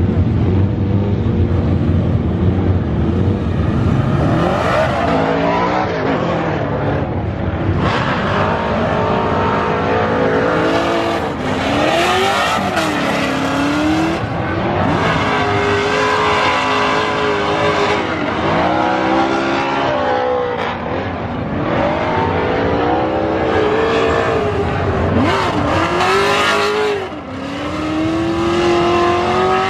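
Pro drift cars on track in a tandem practice run: their race engines rev hard, rising and falling in pitch over and over as the drivers work the throttle through the corners, with a steady hiss of noise underneath.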